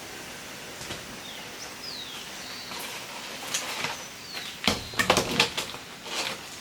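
Birds calling with short, quick downward chirps over a steady outdoor background, with a burst of knocks and clattering in the second half.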